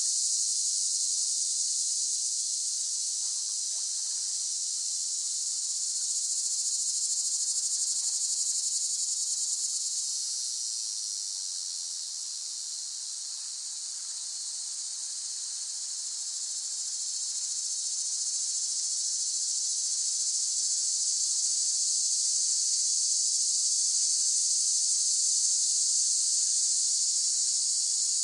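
Cicadas chorusing: a steady, high-pitched shrill buzz that dips in loudness around the middle and swells back up.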